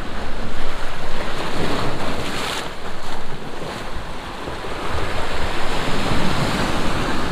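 Sea waves surging and washing in over a rocky shore, a loud steady rush, with wind buffeting the microphone.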